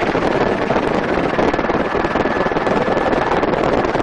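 Helicopter in flight heard from inside its doorless cabin: steady engine and rotor noise mixed with wind rushing over the microphone.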